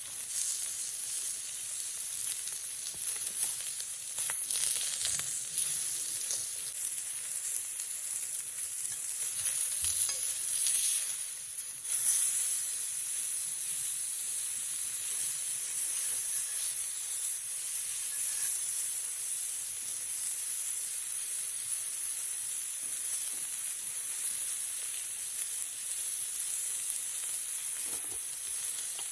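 Meat sizzling steadily on a homemade steel griddle plate, with a few small pops.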